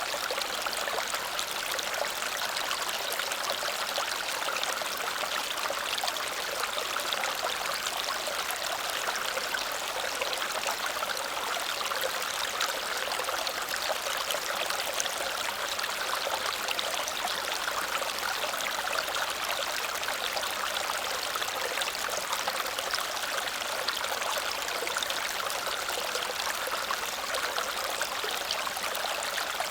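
Small waterfall cascading steadily over rocks, a continuous rushing and splashing of falling water.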